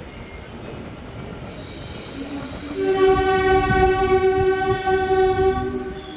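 Train horn sounding one long steady blast of about three and a half seconds, two notes together, over the running noise of the moving train.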